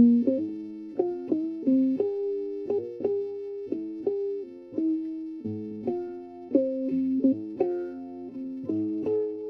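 Background music: a plucked guitar playing a slow sequence of notes and chords, a new note struck about every half second to a second.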